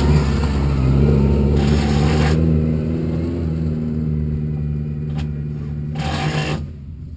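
Suzuki Swift rally car's engine running at a steady, moderate speed, heard from inside the car. Three short bursts of rushing noise come over it, and there is a single sharp click about five seconds in.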